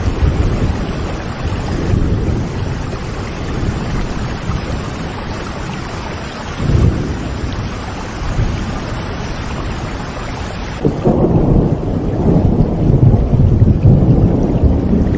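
Steady rain with deep rumbling thunder. About eleven seconds in, the rain's hiss drops away and a louder, deeper rumble takes over.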